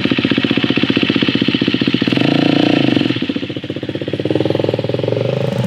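Motorcycle engine running with a fast, even firing pulse; the revs rise briefly about two seconds in, drop back, then build up again near the end.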